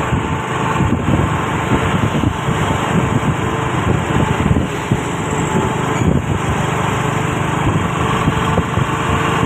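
Diesel engine of a loaded Isuzu Giga truck running steadily under way, a constant rumble with no change in pitch.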